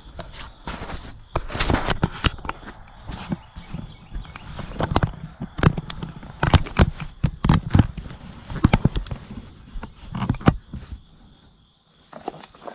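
Irregular footsteps and knocks of tools and parts being handled, over a steady high-pitched insect drone. The knocks thin out and go quiet about eleven seconds in.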